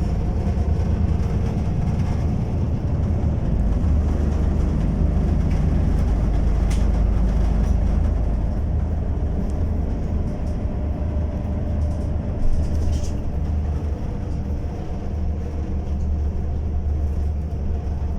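Inside a moving bus: steady low engine and road rumble, with a few faint knocks and rattles as the bus jolts, one slightly louder about twelve seconds in.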